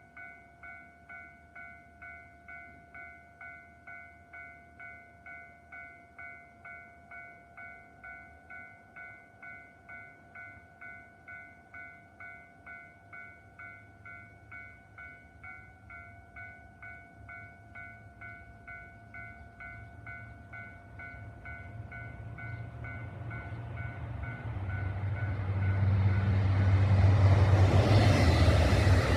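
Railway warning bell ringing steadily about twice a second. Then a JR Hokkaido KiHa 261 series diesel express train approaches and passes through the station at speed, its rumble growing loud over the last several seconds and drowning out the bell.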